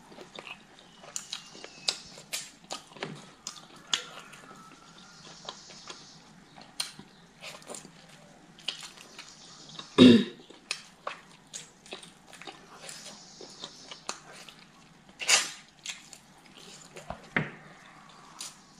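Close-miked eating sounds: a person chewing and smacking the lips, with scattered wet mouth clicks between bites of rice porridge and chicken eaten by hand. A single louder knock about ten seconds in.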